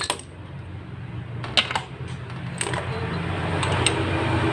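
Several sharp metallic clicks and taps of engine parts and tools being handled, over a steady low rumble that grows louder toward the end.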